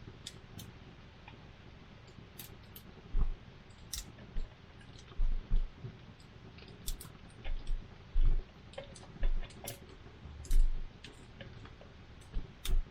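Wood campfire burning, with irregular sharp crackles and pops and several dull low thumps.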